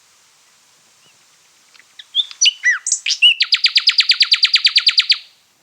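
Common nightingale song: after a quiet start, a few varied whistles and slurred notes, then a fast run of one note repeated about eleven times a second that stops abruptly.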